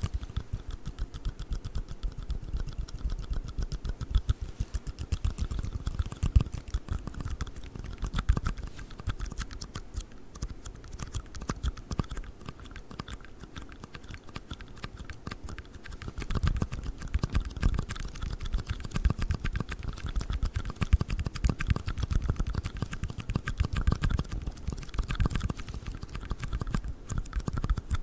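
Rapid tapping and clicking on a black ring box, a dense run of quick taps that comes in louder spells.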